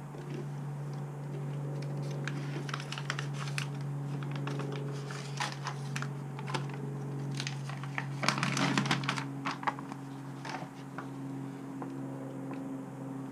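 Crinkling and quick clicking handling noise as foil-faced butyl sound-deadening sheets are worked into place, densest about two-thirds of the way through, over a steady low hum.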